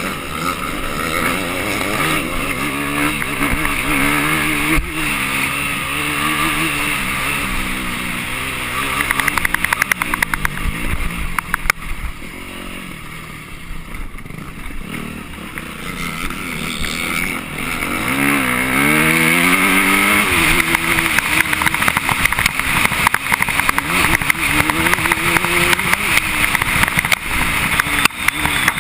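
Off-road motorcycle engine heard from a camera on the bike, revving up and down as the rider works the throttle through the gears. It eases off about halfway through, then picks up again with a rising pitch.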